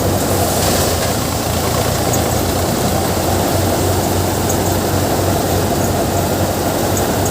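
Sonalika 50 RX tractor's diesel engine running steadily, driving a Gill seven-fan paddy thresher, with the thresher's machinery adding a dense, even din.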